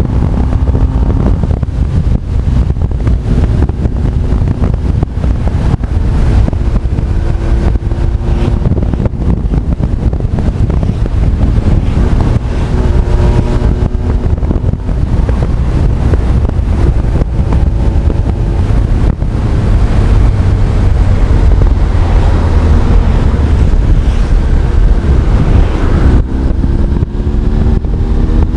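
Honda CB1300 Super Bol d'Or's inline-four engine running on the road, its pitch rising in several spells as it accelerates through the gears. Heavy wind rumble on the action camera's microphone runs under it.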